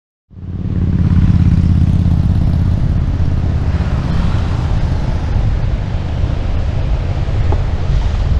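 A Suzuki Address 125 scooter riding along: engine and road noise with wind rushing over the action-camera microphone, a loud, steady low rumble that cuts in abruptly at the start.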